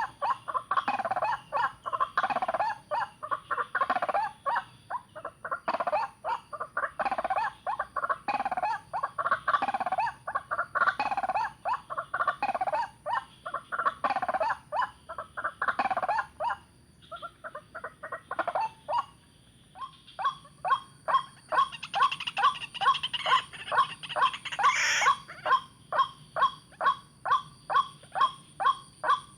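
Young white-breasted waterhen (ruak-ruak) calling: fast repeated notes, a lull after about 17 seconds, then a steady series of sharp notes about two a second.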